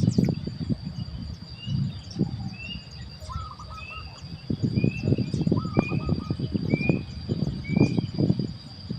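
A bird repeating short chirps, each slightly rising, roughly one every 0.7 seconds, with a couple of brief lower trilled calls in between. A steady high insect whine runs underneath, and there is loud irregular low rumbling.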